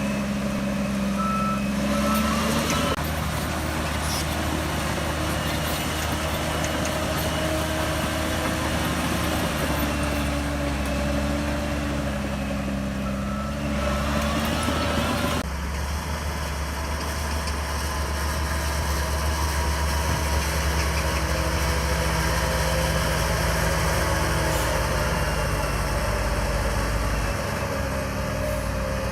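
Bulldozer's diesel engine running under changing load, with its note shifting about 3 seconds in and again about halfway. A short run of reversing-alarm beeps sounds near the start and again shortly before the middle.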